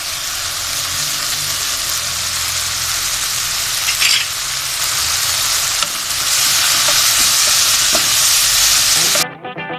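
Chicken and vegetables sizzling hard in hot oil as they are stir-fried, with a few brief scrapes of the stirring. The sizzle cuts off abruptly near the end and gives way to music.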